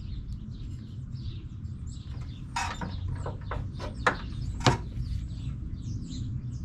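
Birds chirping repeatedly over a steady low hum, with a handful of sharp clicks and taps between about two and a half and five seconds in.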